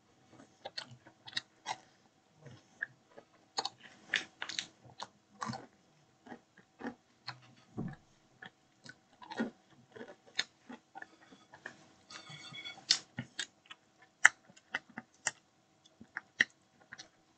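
A person eating: chewing and biting food, with irregular sharp crunches and mouth clicks and a denser crackly stretch about twelve seconds in. A faint steady hum runs underneath.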